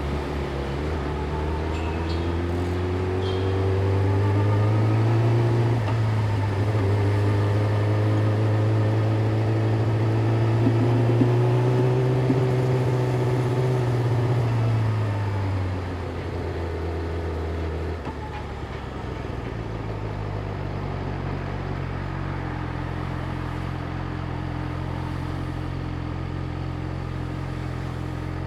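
Yamaha YZF-R6 inline-four engine pulling away with its pitch rising over the first few seconds, holding a steady low speed, then dropping back about fifteen seconds in to a steady idle for the rest.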